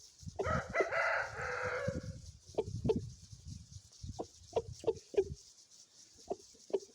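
A parrot-beak aseel rooster crows once, a call of about two seconds starting about half a second in, among short clucks that repeat every half second or so.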